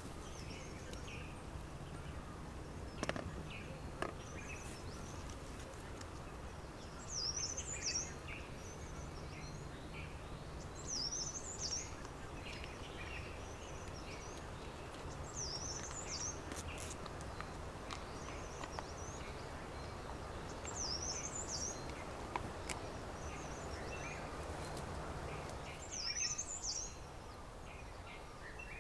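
A songbird singing one short, high phrase over and over, about every four to five seconds, with fainter chirps from other birds between. A few sharp clicks stand out, and a steady low hum runs under it until near the end.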